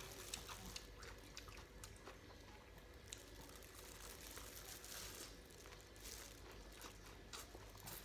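Faint, crunchy chewing of a raw leaf salad, with scattered light clicks and rustles as a plastic-gloved hand gathers the salad from a banana leaf.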